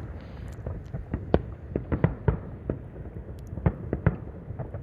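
Distant fireworks going off all around: a continuous irregular string of bangs and pops, several a second, some louder than others, over a low rumble.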